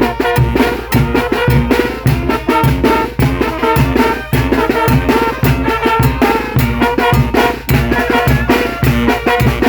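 A Mexican banda, a Guerrero brass band, playing with drums and brass over a steady beat.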